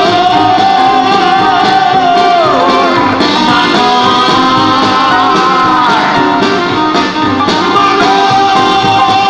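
Live band music: an instrumental break between verses, with a long held lead melody line that bends and slides in pitch over the band.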